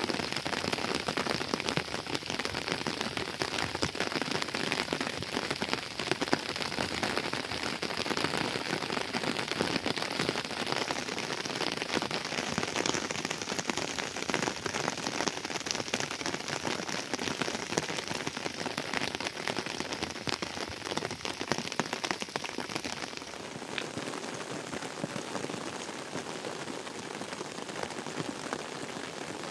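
Steady rain falling, a dense hiss of many small drop impacts. The sound thins slightly in its highest part about three-quarters of the way through.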